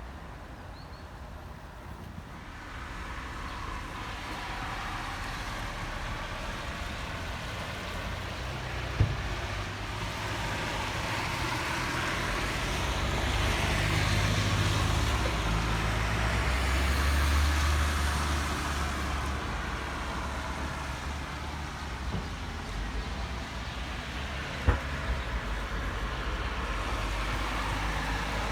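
Motor vehicle driving on a road: a steady low engine rumble with road noise that swells about halfway through and then eases. There is a sharp knock about nine seconds in and another near the end.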